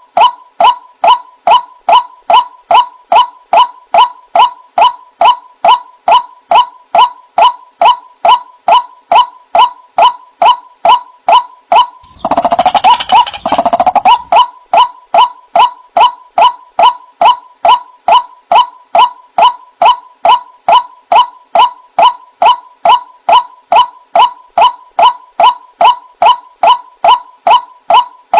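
White-breasted waterhen (ruak-ruak) calling, a single note repeated evenly about two times a second. About twelve seconds in, a louder, harsher burst of calling lasts about two seconds, then the even calls go on.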